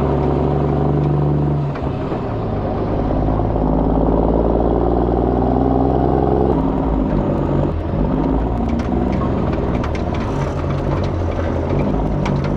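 Kenworth C500 truck's diesel engine running under load. Its tone changes abruptly twice, about two seconds and six and a half seconds in, as at gear shifts. Scattered sharp ticks come over it in the second half.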